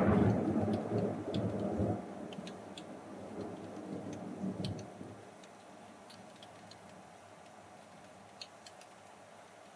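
Thunder rolling and fading away after a lightning strike, the rumble dying out about five seconds in, followed by a few faint scattered ticks.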